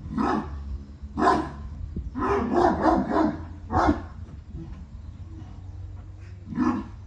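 Central Asian Shepherd dogs barking: single barks early on, a quick run of barks about two to three seconds in, another bark around four seconds, and one more near the end.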